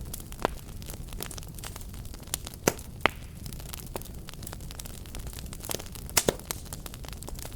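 Wood fire burning with irregular crackles and sharp pops over a low steady rumble of the flames, the loudest pops about a third of the way in and a close pair near the end.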